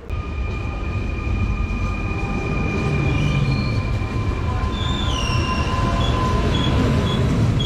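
Fertagus double-decker electric train running along the station platform, a loud steady rumble of wheels on rails with high squealing tones over it. Some of the squeals slide in pitch about five seconds in.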